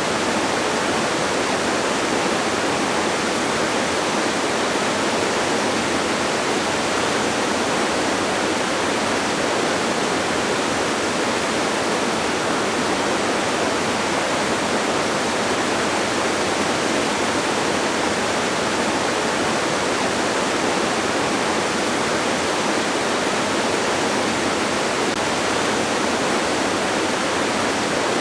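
Steady, unbroken rush of a distant waterfall: an even hiss of falling water that does not change.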